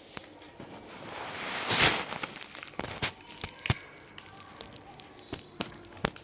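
A sheet of paper being folded and creased: a rustle that swells to a peak about two seconds in, then scattered crackles and taps of the paper being handled and pressed flat.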